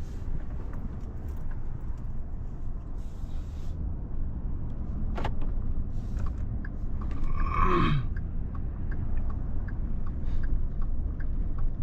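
Inside a vehicle cab, a steady low engine and road rumble while the vehicle waits to turn across traffic. From about the middle on there is a light, regular clicking of the turn signal, and a short falling vocal sound comes near 8 seconds.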